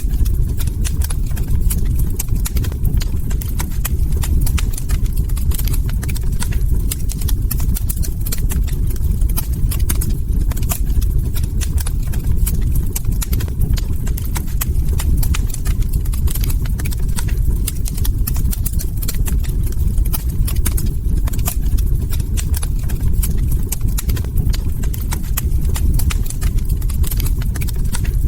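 Log fire crackling: a dense, irregular stream of sharp crackles and pops over a steady low rumble of burning wood.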